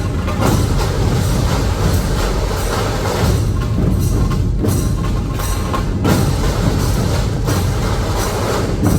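Dhol-tasha ensemble playing: massed dhol drums and sharp tasha snare drums beating a fast, loud, continuous rhythm.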